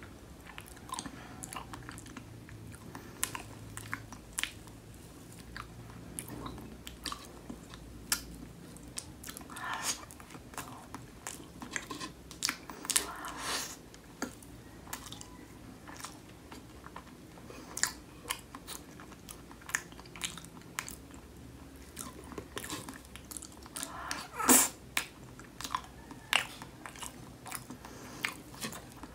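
Close-miked chewing of strawberry cheesecake with a graham cracker crust: soft, wet mouth sounds with many small sharp clicks and smacks. One louder click comes about three-quarters of the way through.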